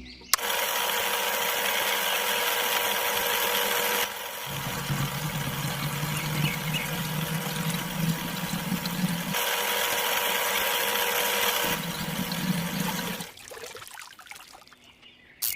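Small electric motor of a miniature model borewell rig running, a steady whine over a grinding hiss. A lower hum joins twice for several seconds, and the machine stops about two seconds before the end.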